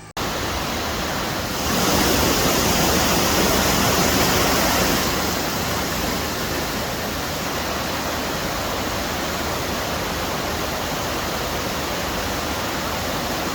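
Loud, steady rushing of water, an even roar with no rhythm. It swells a little about two seconds in, eases back a few seconds later, and starts and stops abruptly.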